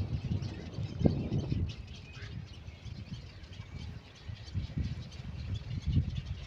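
Birds chirping faintly at the nest over repeated low rumbles, with a short rising chirp about two seconds in.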